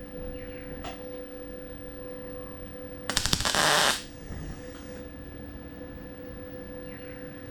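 A MIG welder laying a single tack weld on a sheet-steel fender patch: about a second of sharp, rapid crackling a little past three seconds in, over a steady hum.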